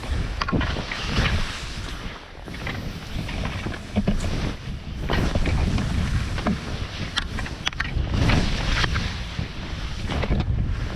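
Heavy wind buffeting an action camera's microphone during a fast run, with scattered sharp knocks and scrapes.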